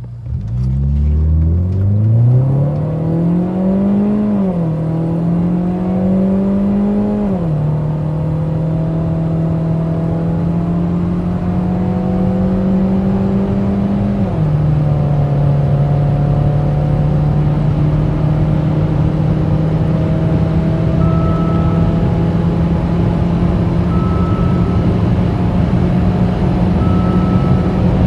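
Saab 9-3 2.0T's turbocharged four-cylinder engine at full-throttle acceleration, its note rising through the gears and dropping at three upshifts, each gear climbing more slowly than the last. From about three-quarters of the way through, a short beep repeats every few seconds.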